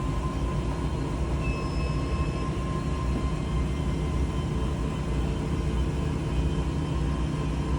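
Steady low mechanical rumble with a constant hum, from machinery running at an even speed.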